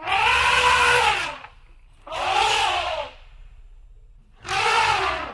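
Elephant trumpeting: three loud calls, each about a second long, that rise and then fall in pitch.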